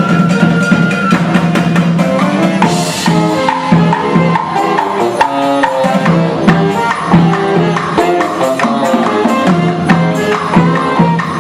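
Live band music: fast runs of short melodic notes over steady hand percussion and a low sustained tone, with a high held note ending about a second in.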